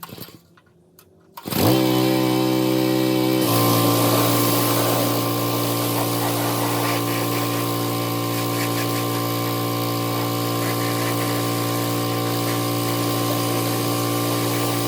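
A small engine starts suddenly about a second and a half in, runs faster for about two seconds, then settles into a steady run.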